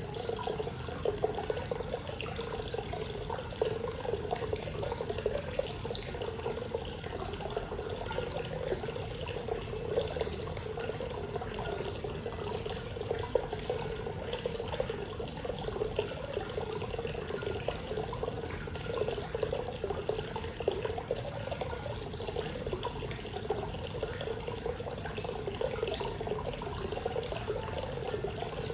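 Hot spring water pouring steadily into an onsen bath, a continuous splashing flow with small irregular splashes.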